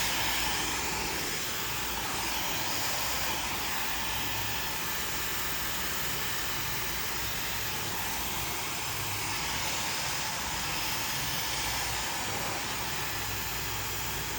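Handheld hair dryer blowing steadily during a blow-dry, a continuous airflow hiss that swells and dips slightly every couple of seconds.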